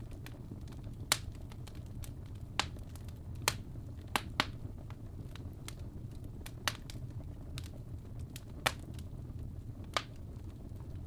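Fire burning in a fireplace: sharp, irregular crackles and pops, about a dozen of them, the loudest about a second in, over a steady low rumble of flames.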